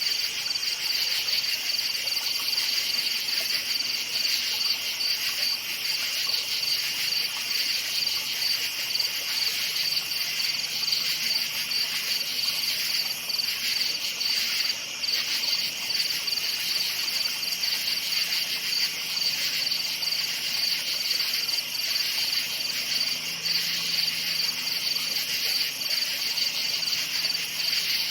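Night chorus of crickets chirping, a dense, steady, high-pitched trill with a fine pulsing texture.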